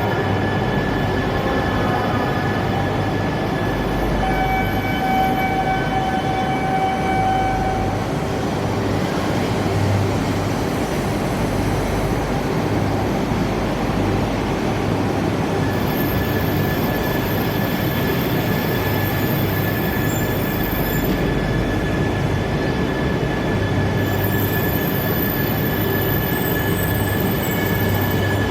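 Electric train running through the station: a steady loud rumble of wheels and rails, with steady high motor whine tones over it.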